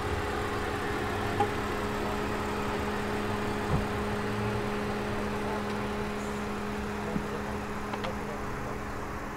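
A car engine idling steadily with an even hum, and a few faint knocks.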